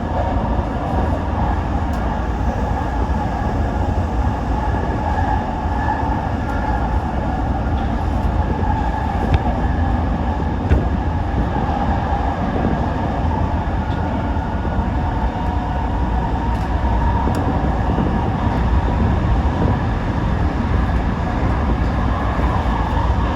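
Toyo Rapid Railway 2000-series electric train running between stations: a steady rolling and wheel-on-rail noise with a low rumble, heard from inside the train.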